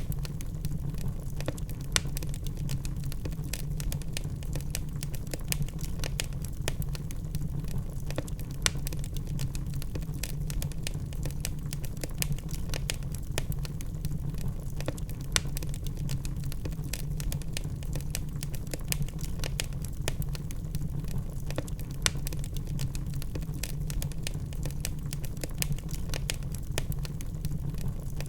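Wood fire burning in a fireplace: a steady low rumble of flames with dense, irregular crackling and a few louder pops from the burning logs.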